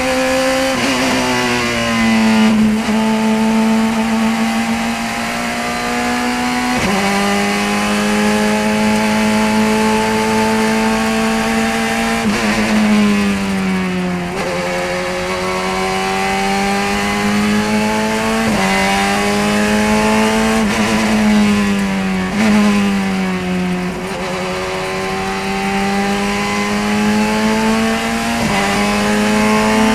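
Race car engine at high revs on a lap, heard from on board. It climbs through the gears, with a sudden drop in pitch at each upshift, and falls away twice under braking and downshifting before pulling again.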